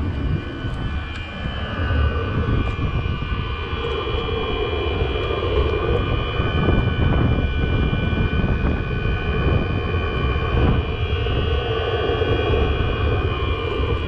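A Chinese diesel air heater running with a steady jet-engine-like noise: a low rumble under several steady whining tones. It is quite noisy, and the owner hopes the noise comes from the exhaust and not a worn bearing inside the unit.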